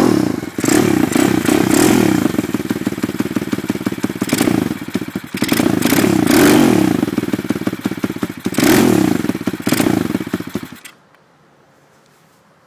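Lifan 140cc four-stroke single-cylinder pit bike engine running and being revved up and down several times. It cuts off suddenly about eleven seconds in.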